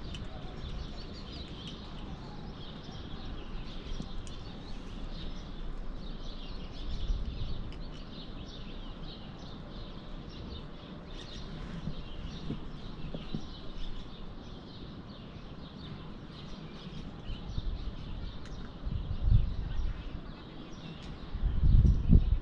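Small birds chirping continually in high, short calls over a low outdoor rumble. Heavy low bumps and rumbles hit the microphone a few times, loudest near the end.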